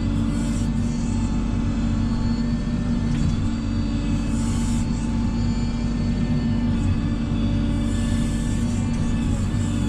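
Steady machine hum at constant speed, with a few brief hissing bursts.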